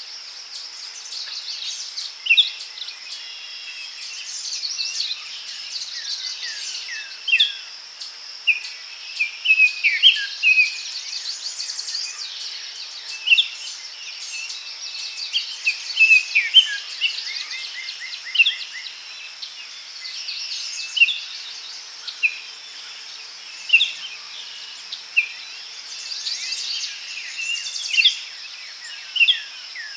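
Daytime forest birdsong: many short chirps and whistled calls from several birds, one every second or two, over a steady high insect buzz.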